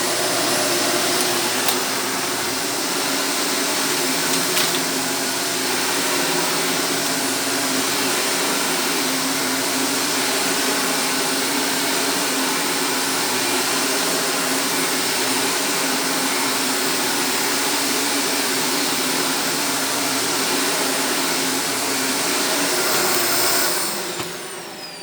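Shark vacuum cleaner running steadily with a high motor whine as it sucks up debris from the floor. It is switched off near the end, and the whine falls as the motor spins down.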